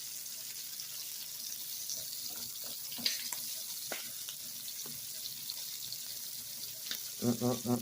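Breaded shrimp deep-frying in hot oil: a steady sizzle with a few sharp pops.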